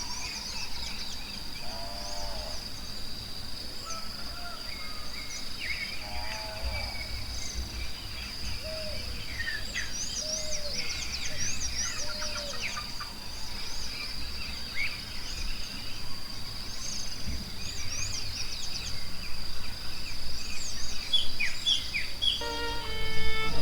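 Forest birds chirping and calling over a steady high insect drone, with a few short lower calls among them. Soft music with held notes comes in near the end.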